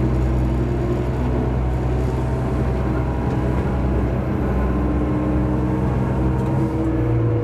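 Diesel railcar running under way: a steady low engine drone with a few held engine tones. The engine note shifts slightly near the end.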